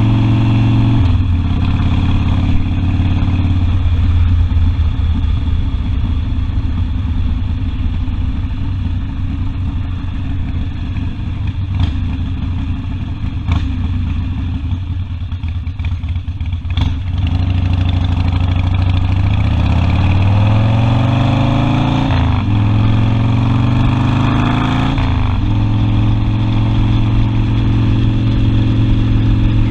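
Harley-Davidson Sportster V-twin engine under way. It eases off about a second in and runs lower and rougher for a while. Then it accelerates with two rising revs, each broken by an upshift, and settles into a steady cruise.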